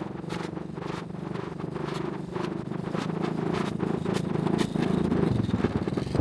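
A motor vehicle's engine running and growing louder toward the end, with scattered sharp ticks over it.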